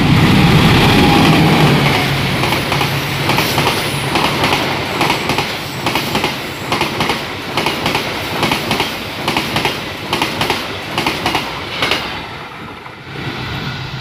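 Diesel-hauled passenger train passing close by: the locomotive's engine drone is loudest at first, then the coaches roll past with a regular clickety-clack of wheels over the rail joints, about two clacks a second, fading away near the end.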